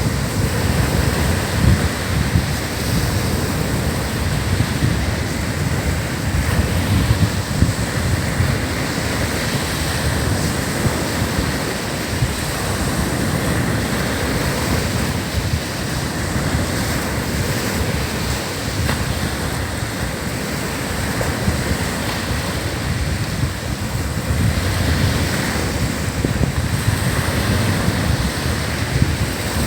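Ocean surf washing onto a sandy beach in a continuous, steady rush, with wind buffeting the microphone in low rumbles.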